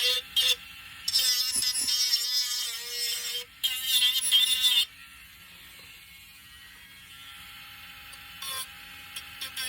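Small handheld electric sanding tool running with a steady whine. For the first five seconds or so it is loud and scratchy as the tool grinds against the wood, then it settles to a quieter steady hum.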